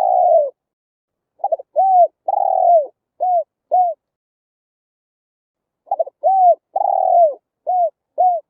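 Spotted dove cooing: a note right at the start, then two phrases of about five coos each, the longer coo in the middle of each, separated by a pause of about two seconds.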